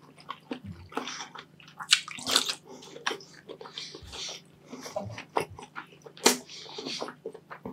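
Close-miked wet chewing and biting: irregular sticky clicks, squelches and lip smacks as a mouthful of hard-boiled egg is eaten.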